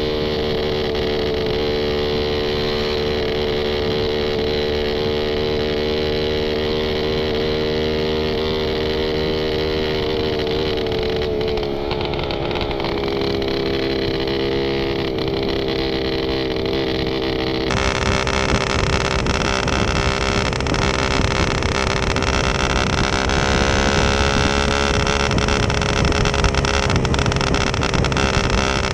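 Suzuki Satria FU 150's single-cylinder four-stroke engine through a hollowed-out stock muffler, running at a steady note whose pitch sags briefly about halfway. About two-thirds in the sound jumps abruptly to a louder, fuller exhaust note that then climbs in pitch.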